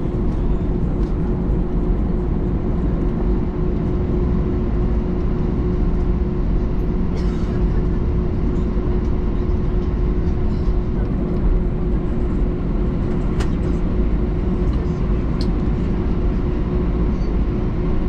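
Airbus A321-200 cabin noise on the ground with the engines running: a steady rumble with a constant hum underneath and a few small clicks.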